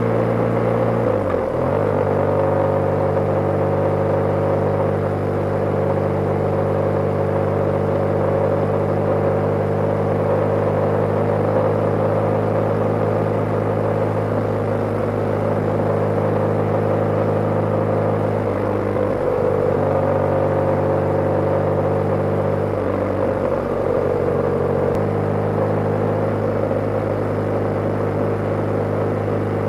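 BMW G/S motorcycle's flat-twin engine running steadily under way. The engine note dips and shifts briefly about a second in, and twice more in the second half.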